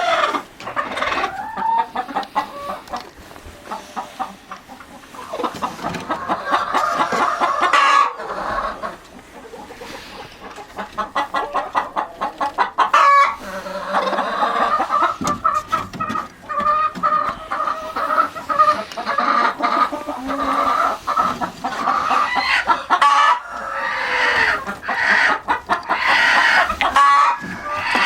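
Chickens clucking and calling, with quick runs of clucks and longer drawn-out calls overlapping throughout.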